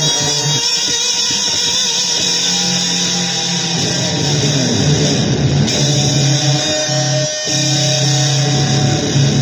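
Noisy electric guitar music: a dense wall of sound over a held low drone, with pitches sliding down in the middle and a brief break about seven seconds in.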